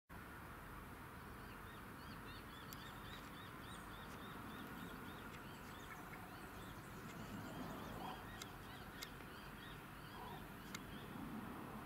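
Outdoor ambience: a small bird chirps in a quick run of short high notes, about four a second, for several seconds, then more sparsely, over a low steady background noise, with a few sharp ticks.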